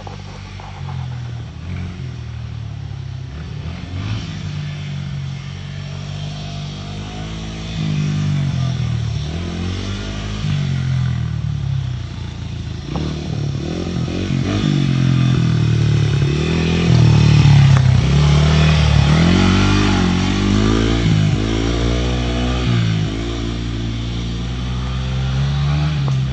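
Dirt bike engine running, then revving up and down again and again from about a third of the way in, loudest a little past the middle.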